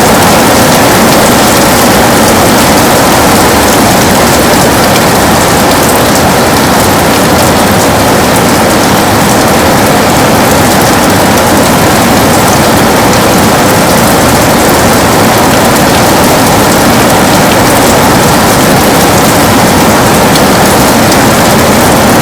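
Heavy rain beating steadily on a window, a dense unbroken hiss with no separate drops or events standing out.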